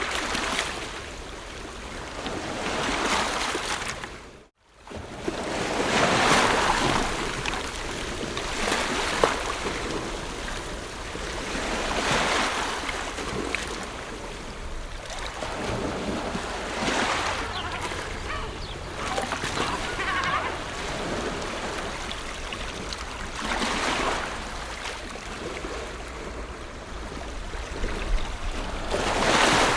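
Ocean waves breaking and washing up the shore, surging and receding every few seconds over a steady low rumble. The sound drops out almost to silence for a moment about four and a half seconds in.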